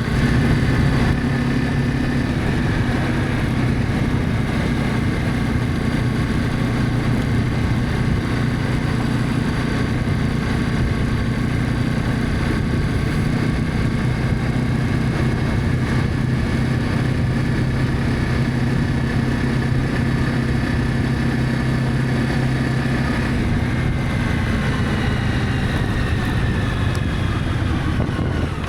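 Honda CB300F motorcycle engine running steadily while riding, then dropping in pitch over the last few seconds as the bike slows.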